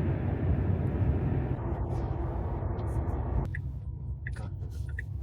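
Road noise from an electric car driving at highway speed: a steady low rumble of tyres on the road with a hiss above it. About three and a half seconds in, the hiss drops away and the rumble gets quieter.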